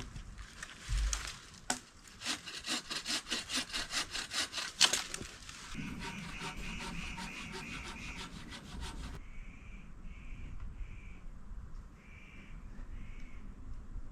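Saw cutting through wood with fast, even back-and-forth strokes, about five a second, then a steadier rasp with a higher tone and a few slower, separate strokes in the second half.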